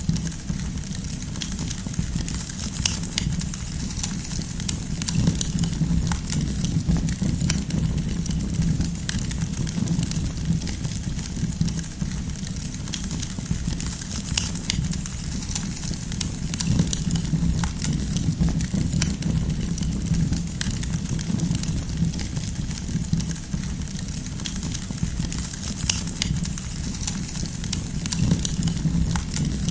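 Campfire of burning firewood crackling, with many small sharp pops scattered over a steady low rumble.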